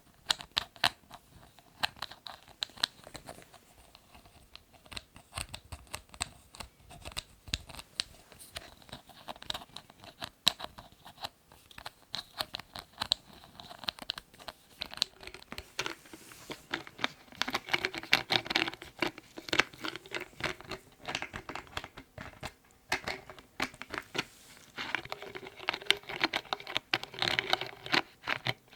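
Lids being handled close to the microphone: quick, irregular tapping clicks, with denser scratching and rustling stretches a little past halfway and again near the end.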